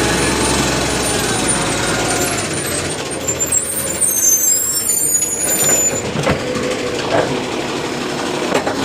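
Garbage truck at work. A low engine rumble drops away about two and a half seconds in, high squeals follow, then a few sharp clanks near the end.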